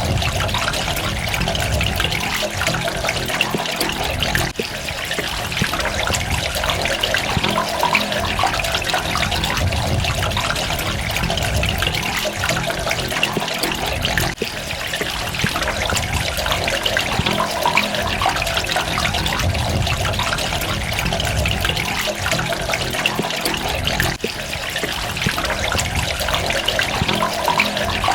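Water running steadily and splashing, with fine drops pattering through it. The level sags briefly about every ten seconds.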